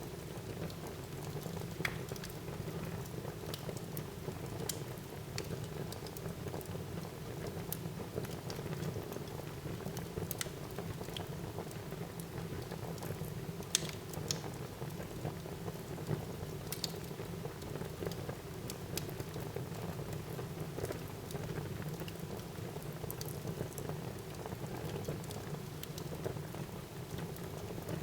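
Wood fire burning in a fireplace: a steady low rushing with scattered sharp crackles and pops, the sharpest about 14 seconds in.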